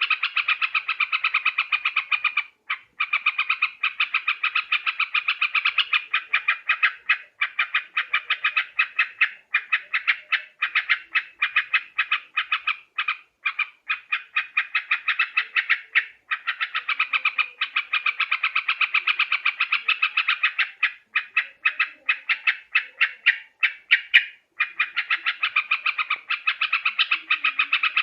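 Yellow-vented bulbul (trucukan) giving a fast, rattling chatter of about ten notes a second, kept up almost without pause and broken only by a few short gaps.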